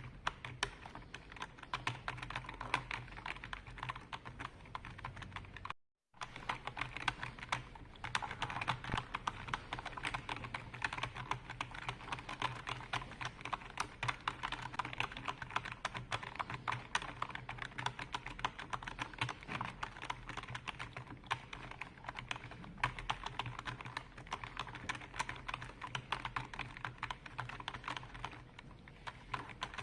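Fast, continuous typing on a computer keyboard: a dense run of key clicks with no pauses, broken once by a short silent gap about six seconds in. A faint low hum runs underneath.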